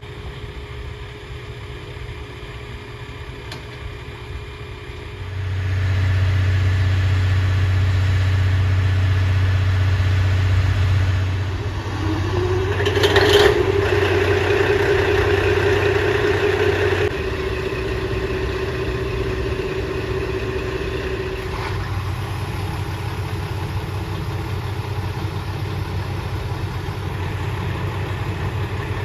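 Diesel train engine running close by, its low hum growing louder about five seconds in. A tone rises and then holds from about twelve seconds in until about twenty-two seconds, with a short burst of noise near thirteen seconds.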